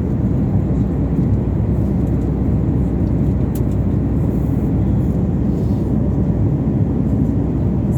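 Steady low roar of jet engine and air noise heard inside an airliner cabin.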